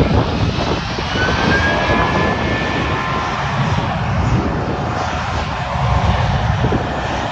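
Jet airliner's engines at takeoff power: a loud, steady rumble with a thin high whine that drifts slowly in pitch.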